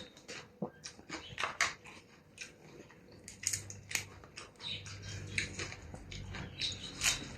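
Close-miked eating of beef noodle soup: chewing, slurping and lip smacks in a run of short wet clicks. A low hum comes in about three and a half seconds in and carries on under the eating.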